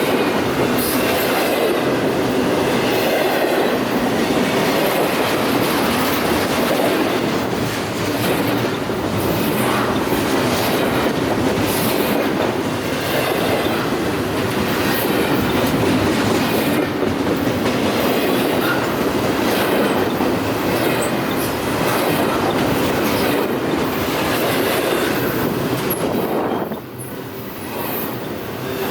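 Freight train cars rolling past, wheels clattering over the rail joints with some wheel squeal. It briefly drops quieter near the end.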